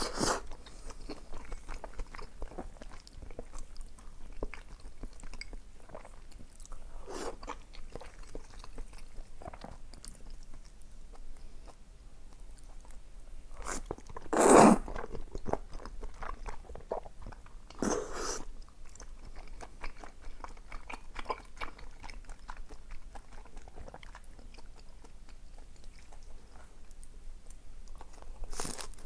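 A person eating close to the microphone: steady chewing and biting with small crackly mouth sounds. A single louder, noisier mouthful comes about halfway through, and a smaller one a few seconds later.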